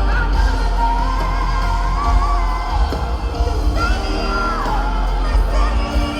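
A female pop singer performing a ballad live with band accompaniment in a large hall, with the crowd whooping. It is recorded from the audience with a heavy, booming low end.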